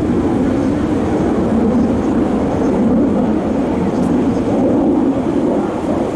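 Steady rumbling roar of an aircraft's engines during an airshow flypast, holding level without distinct changes.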